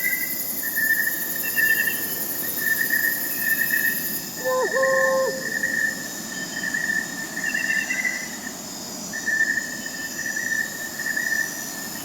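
Crickets chirping in a steady pulsing trill, with one short whistled owl hoot about five seconds in.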